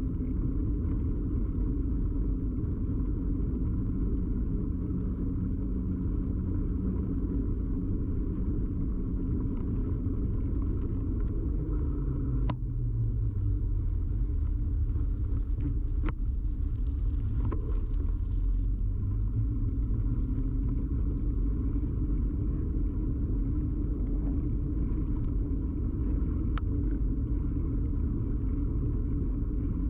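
Ride noise from a bicycle picked up by a camera mounted on the frame: a steady low rumble of tyres and frame vibration. A low hum drops in pitch about twelve seconds in and climbs back several seconds later, and a few sharp clicks sound along the way.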